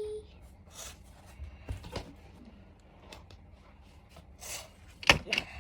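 Faint handling noises, a few soft rustles and light knocks, then one sharp knock near the end.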